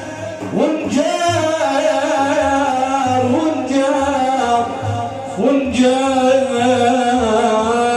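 Religious Arabic praise song for the Prophet (manqaba) with long held, ornamented sung notes over a steady low beat.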